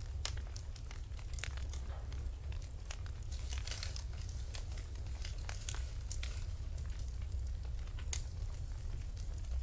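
Wood fire burning in a fireplace: a steady low rumble of the flames with irregular crackles and pops, a flurry of crackling about four seconds in and one sharper pop near the end.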